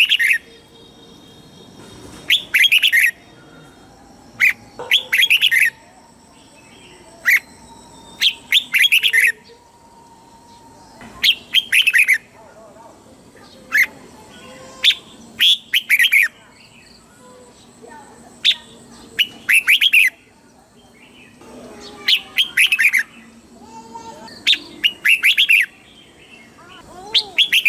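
Red-whiskered bulbul singing short, rapid song phrases over and over, about one every two seconds, each lasting under a second.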